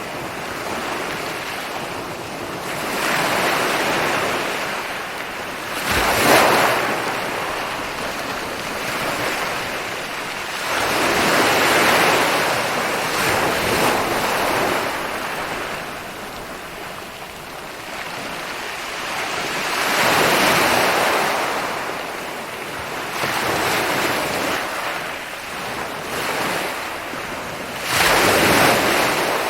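Ocean waves rolling in and breaking on a beach, the surf swelling and fading every several seconds, with sharper crashes about six seconds in and near the end.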